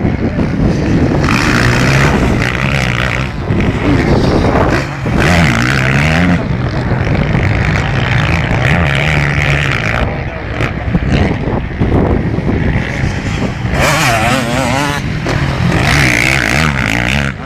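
Motocross bikes racing, their engines revving up and dropping back again and again as they accelerate and shift.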